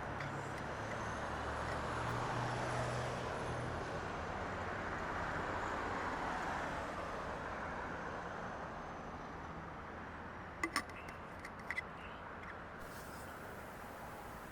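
Distant jet airliner engine noise: a steady rushing that swells over the first few seconds and slowly fades, with a few faint sharp clicks near the end.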